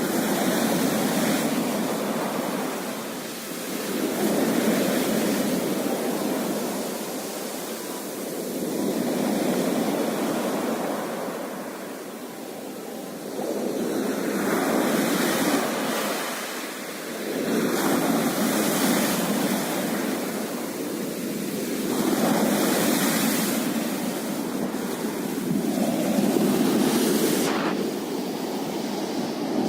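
Sea waves breaking and washing on the shore, the surf swelling and falling back about every four to five seconds.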